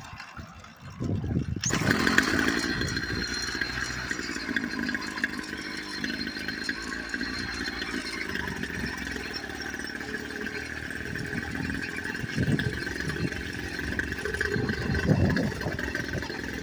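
Small motorbike engine with a newly fitted exhaust, running under way on a ride. It comes in loudly about a second and a half in, then runs steadily with a high whine above it, swelling briefly a couple of times near the end.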